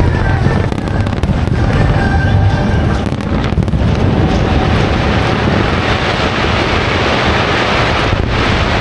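Fireworks display: a dense, continuous barrage of bursts and crackling. Show music is faintly audible under it for the first few seconds.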